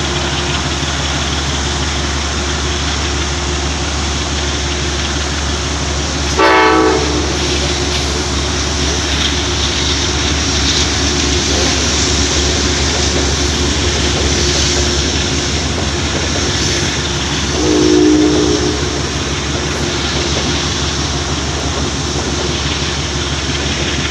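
Amtrak passenger train running past below with a steady rumble. Two short horn blasts sound, a brief one about six seconds in and a slightly longer one around eighteen seconds.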